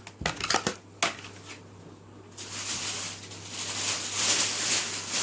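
Plastic blister packaging and card packs being handled: a few light clicks and taps in the first second, then a longer stretch of crinkling and crackling plastic from about two and a half seconds in.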